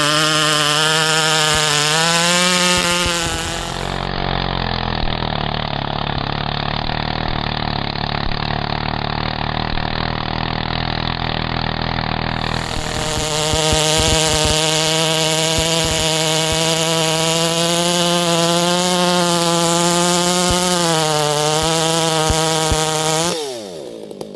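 Two-stroke chainsaw running at full throttle through a big maple log, its pitch sagging under load through the middle of the cut and then steadying high again. Near the end the revs fall quickly as the throttle is let off.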